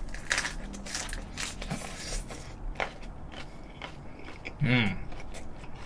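Close-up chewing of a mouthful of napa cabbage ssam wrap, many small crisp crunches in an irregular run, with a short hum of the eater's voice near the end.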